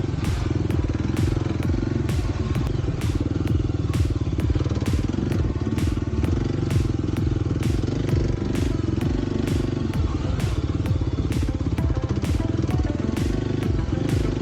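Kawasaki KLX 300's single-cylinder four-stroke engine running at varying throttle while riding a trail, with frequent sharp ticks and knocks over it.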